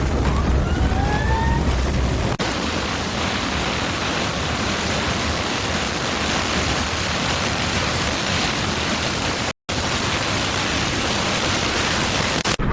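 A loud, steady rushing noise with no tone in it, broken by a brief gap near the end. Before it, for about two seconds, a low rumble with a few gliding whistle-like tones.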